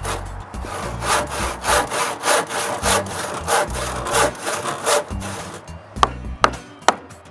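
Hand saw cutting through a wooden stud in quick, even back-and-forth strokes, about three a second, stopping about five seconds in. A few sharp knocks follow near the end.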